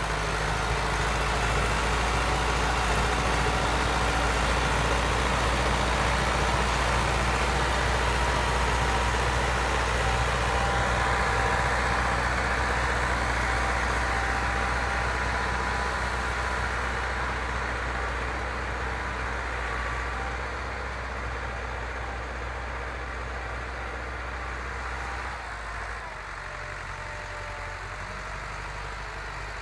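IMT 577 tractor's diesel engine running steadily. It grows quieter through the second half and drops in level again near the end.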